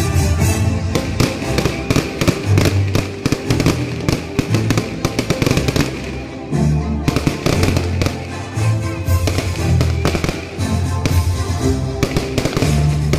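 Fireworks bursting and crackling in quick, irregular bangs over loud music with a heavy bass beat.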